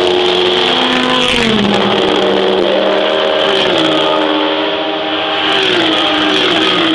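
Race cars' engines at full throttle, passing one after another while accelerating uphill. Several engine notes overlap, and they drop in pitch about a second and a half in, around three and a half seconds in, and again near the end.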